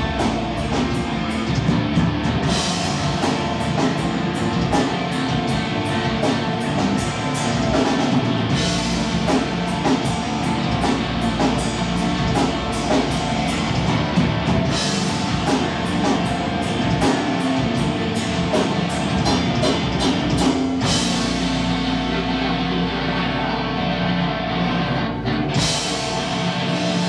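Live heavy rock band playing at full volume: distorted guitars over a pounding drum kit with repeated cymbal crashes, heard from within the crowd.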